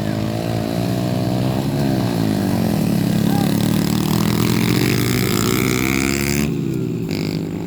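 Pit bike engines revving up and down as the small motorcycles race, their pitch rising and falling. The sound changes abruptly near the end.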